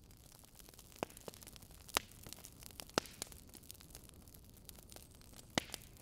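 Crackling fire: a faint steady hiss with sharp pops scattered through it, four louder ones about one, two, three and five and a half seconds in.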